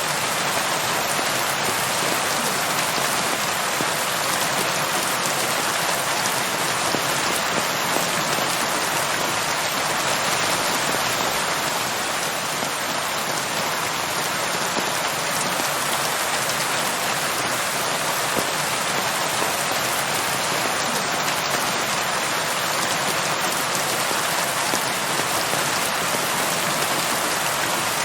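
Steady, even rain falling on a surface, with no thunder or other sounds.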